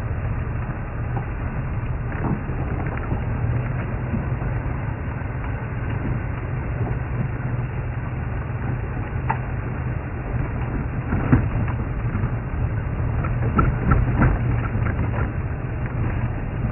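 Safari game-drive vehicle running with a steady low engine rumble, driving on rough ground. Scattered sharp cracks and clicks sound over it, coming thicker from about two-thirds of the way in.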